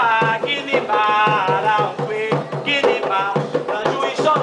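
Voices singing an Afro-Brazilian religious chant for Xangô over hand drums beating a quick, steady rhythm.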